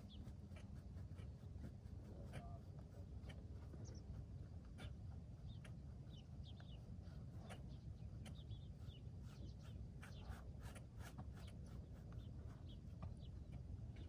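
Faint scratching and scraping of stones being cleaned by hand, with scattered short bird chirps.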